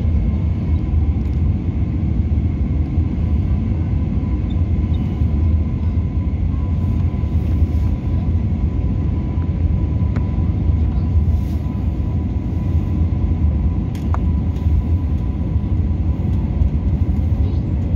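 Airbus A320neo's steady rumble of engines and airflow, unchanging throughout, with a faint steady hum above it.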